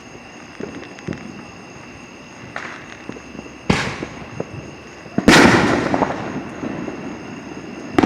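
Backyard consumer fireworks going off all around: scattered small pops, a sharp bang a little past three and a half seconds in, then the loudest boom about five seconds in, rumbling and echoing away over the next couple of seconds, and another bang at the very end.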